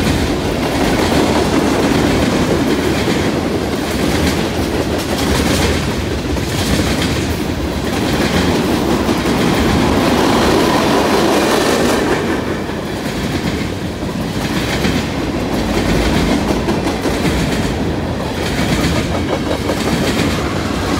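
Freight train cars (tank cars and covered hoppers) rolling past close by, loud and steady: steel wheels running on the rails with a repeating clickety-clack over the rail joints.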